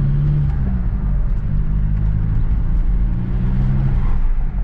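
Volkswagen Golf Mk4 TDI wagon driving: a steady diesel engine drone with road noise, its low tone wavering slightly in pitch.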